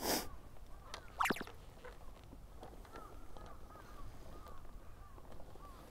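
Birds calling over and over, faint, with one louder call about a second in.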